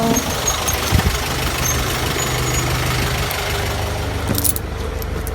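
City bus engine running as the bus pulls in at the stop, with a single knock about a second in and a few clicks near the end; the sound then turns duller, leaving a steady low engine throb.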